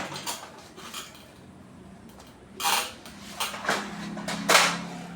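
A few short clatters and clinks of metal tools and parts being handled on a workbench, over a faint steady hum.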